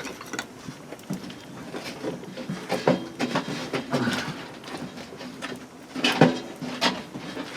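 Firewood being fed into a small wood stove: irregular knocks and clatter of wood pieces, with a sharper knock about six seconds in.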